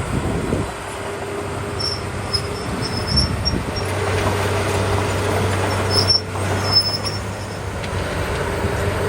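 Small crawler bulldozer working: its diesel engine runs steadily under load while the steel tracks squeak and squeal in short high bursts now and then.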